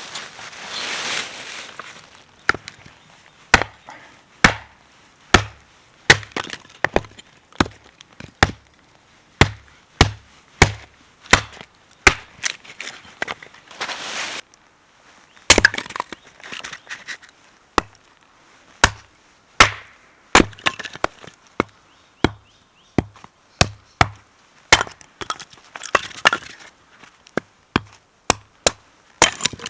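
Firewood being chopped or split with a blade: a long run of sharp wooden knocks, roughly one a second, with a short break about halfway through.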